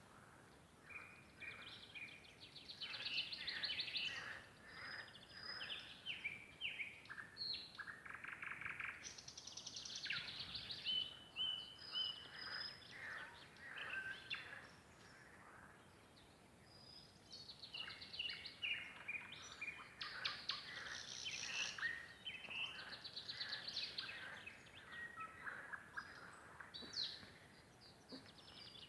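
Nightingale song: phrases of fast repeated rattling notes and piping whistles, with short pauses between them.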